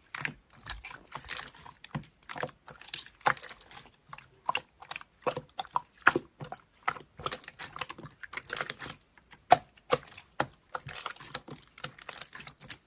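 Slime being squeezed and pressed by hand, a quick irregular run of small clicks and pops.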